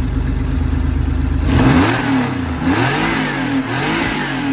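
1991 Porsche 964's air-cooled flat-six, fitted with a straight-through tube in place of the rear silencer, idling and then revved in three quick throttle blips, each rising and falling in pitch.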